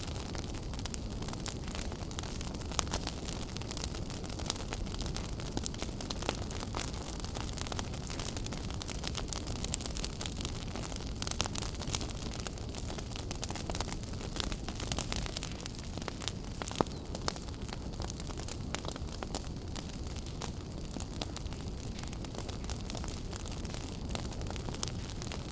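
Wood fire burning in a fireplace: a steady low rumble and hiss of the flames with constant irregular crackles and sharp pops, a few of them louder than the rest.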